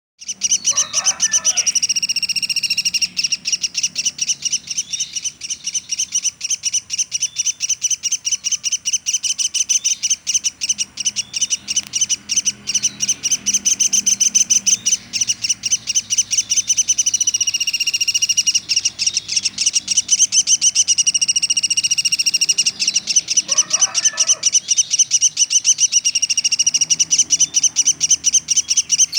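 Velvet-fronted nuthatch (pelatuk sampit) calling in a rapid nonstop trill: loud, sharp, high notes repeated many times a second with barely a break.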